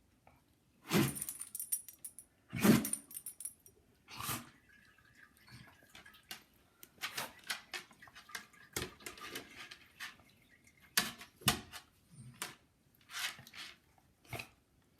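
A dog sneezing repeatedly in a fit of idiopathic sneezing (sneezing with no known cause): sharp, sudden sneezes about a second or two apart, the loudest ones in the first few seconds.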